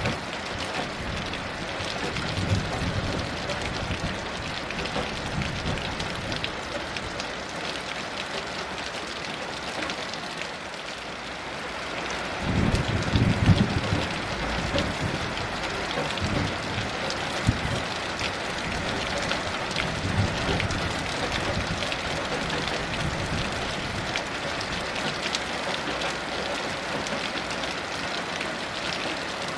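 Heavy rain falling steadily, with low thunder rumbling in the background a few times, the loudest roll about halfway through.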